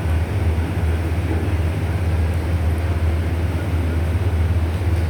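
MTR East Rail line train running in the station, a steady low rumble with an even rushing noise.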